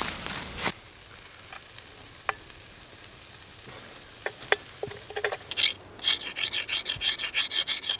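A few light clicks and taps, then from about six seconds in a fast, even rasping scrape, about five strokes a second.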